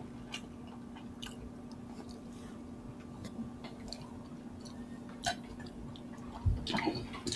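People chewing mouthfuls of rice and chicken, quiet wet mouth sounds with scattered soft clicks over a faint steady hum; the clicks grow louder and closer together shortly before the end.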